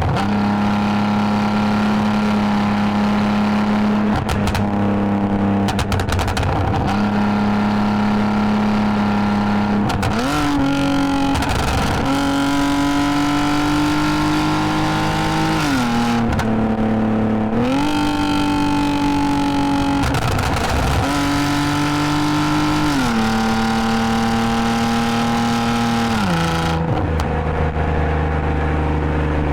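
2010 Lexus IS250 AWD's 2.5-litre V6 through an aftermarket full exhaust with valved mufflers, running under way. The engine holds a steady pitch for about ten seconds, then rises and falls several times as the car pulls and eases off, and settles lower near the end.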